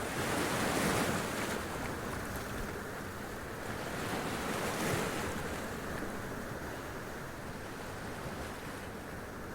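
Sea waves running up and splashing against rocks, two surges about four seconds apart over a steady wash of surf.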